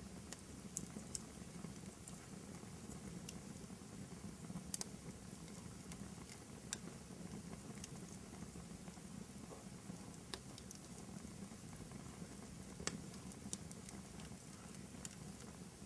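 Wood fire burning in a fireplace: a steady low rush of flames with scattered sharp crackles and pops from the burning logs.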